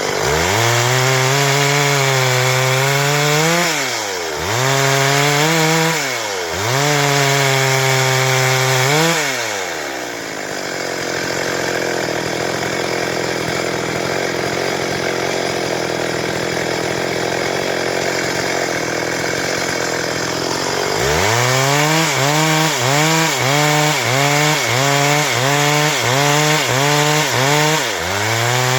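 Stihl MS 382 two-stroke chainsaw running at high revs, the engine pitch dipping and recovering every two to three seconds. Partway through, the engine pitch gives way for about ten seconds to a steady rough rasp. Near the end the revs rise and fall quickly, about once a second.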